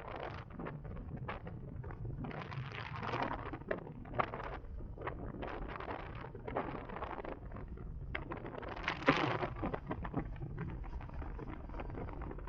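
Wind buffeting the microphone on a moving electric motorcycle, over a steady low road rumble, with no engine note. Two stronger gusts swell up, a couple of seconds in and again about three quarters of the way through, with scattered sharp crackles.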